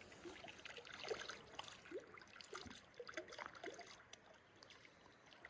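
Faint trickling water with scattered small ticks, close to silence.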